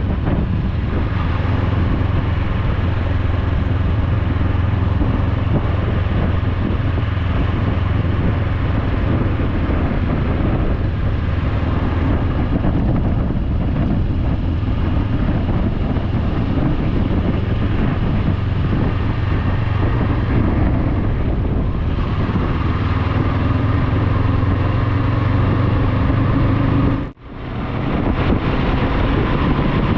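Motorcycle riding at road speed: the engine's low hum under a steady rush of wind on the microphone. A little before the end the sound cuts out abruptly for an instant and comes straight back.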